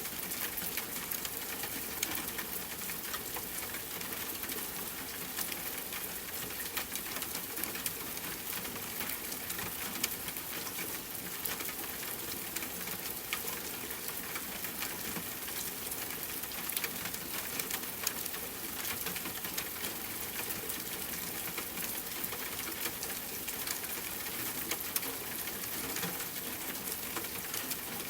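Steady rain blended with a crackling wood fire: an even hiss with many small, sharp pops and crackles scattered through it.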